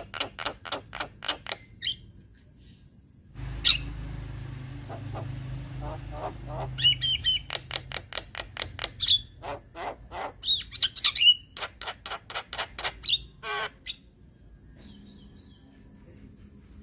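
Javan myna (jalak kebo) chattering song: bursts of rapid, harsh clicking notes mixed with short whistles, broken by two brief pauses. A low rumble sits under the calls for a few seconds early on.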